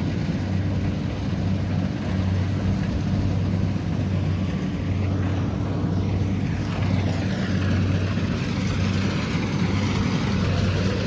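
Kubota DC70 Pro combine harvester's diesel engine and machinery running steadily with a continuous low drone.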